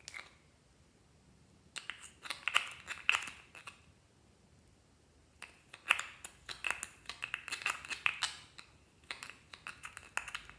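Clear slime being squeezed and kneaded by hand, giving wet, crisp clicking and popping in three runs with short pauses between.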